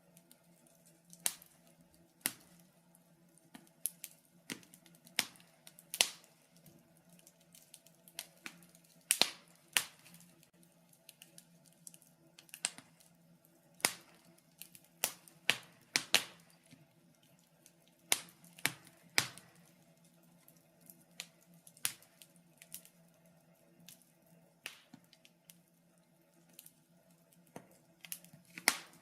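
Wood fire crackling in a fireplace: irregular sharp snaps and pops, some louder than others, about one or two a second. A faint steady low hum runs underneath.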